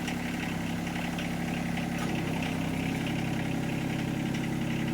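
Tractor engine running steadily at low revs while it tows a non-running truck out on a chain.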